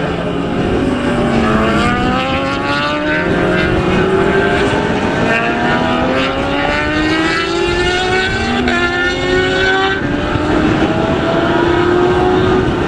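Several racing motorcycle engines at high revs, their notes climbing and dropping back with each gear change, over and over as the bikes accelerate.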